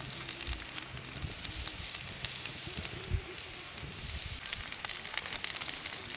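Wood campfire crackling, with a light steady hiss and scattered small pops.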